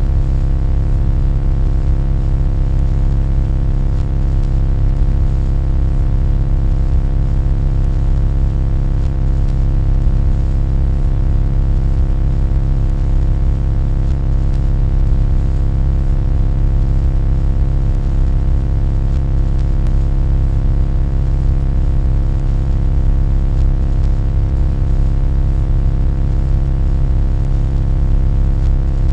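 A loud, steady low droning hum with many fixed overtones, unchanging in pitch or level.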